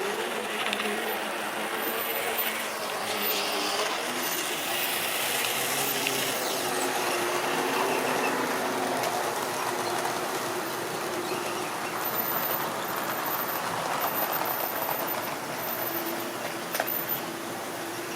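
Model railway train running along the track: a steady electric motor hum with wheel and track noise, and one sharp click near the end.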